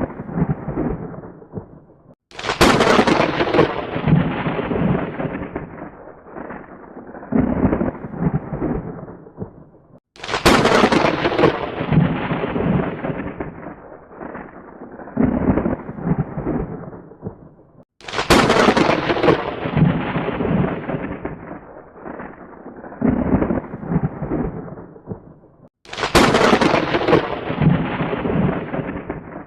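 Thunder: four claps about eight seconds apart, each a sudden sharp crack that rolls into a rumbling peal and dies away.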